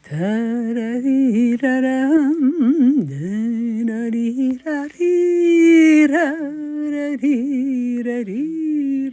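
A woman's solo voice humming a slow folk-song melody without words, unaccompanied, with long held notes that waver.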